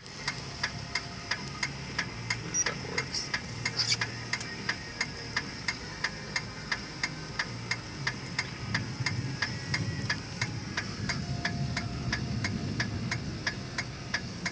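Car indicator flasher clicking at an even pace, about three clicks a second, over the low steady rumble of the car.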